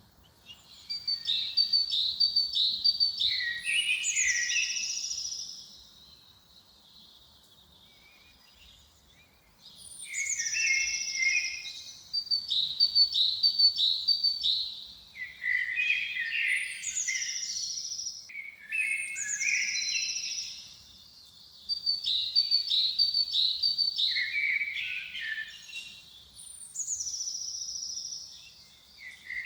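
A songbird singing the same short song over and over. Each song is a quick run of four or five same-pitched notes, a higher falling note and a few lower notes. There is a pause of several seconds after the first song, then shorter gaps between the rest.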